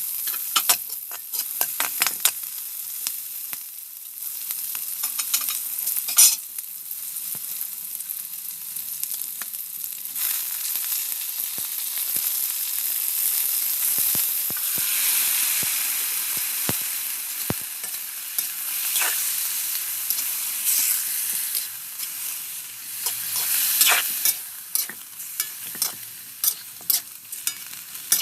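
Food sizzling as it fries in a pan, with a utensil clacking and scraping against the pan as it is stirred. The stirring clicks come in runs near the start and again in the last few seconds, and the sizzle grows louder through the middle.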